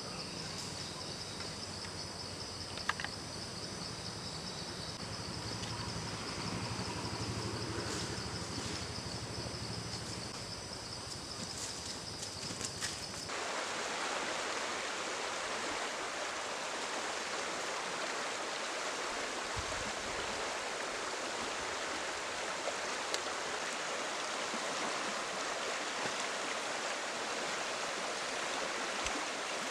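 A stream's water rushing steadily. For the first third or so it is quieter, under a steady high-pitched whine and a few light ticks; then the sound changes abruptly to a loud, even rush of flowing water.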